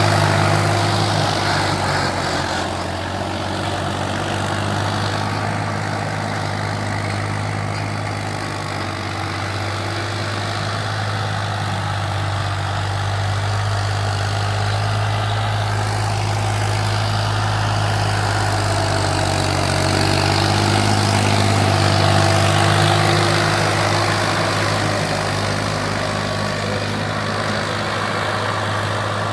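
Farm tractor's engine running steadily with a low, even hum.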